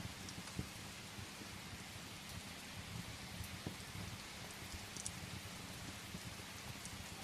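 Steady rain with scattered sharp pops and crackles of burning firewood in a fireplace.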